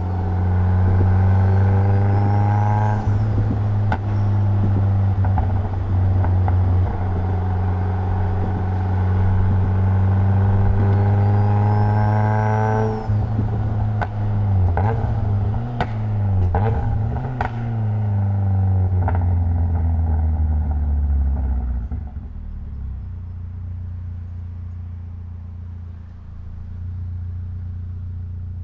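Mitsubishi Lancer Evolution X's turbocharged 2.0-litre four-cylinder engine pulling under load, its pitch rising twice as it accelerates. A run of sharp clicks follows as it eases off. Near the end it settles to a quieter, steady running.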